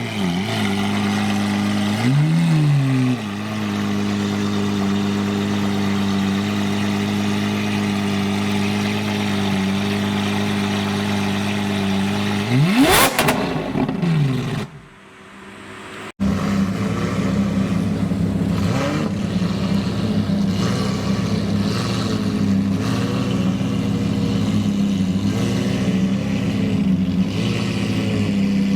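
Supercar engines idling, with two quick throttle blips near the start. About thirteen seconds in, a sharp rev rises and falls away. After an abrupt cut, another engine idles with small blips of the throttle.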